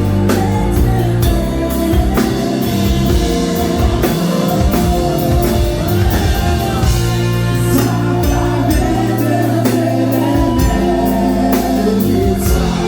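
Live band music with a woman singing over sustained chords and a steady drum beat.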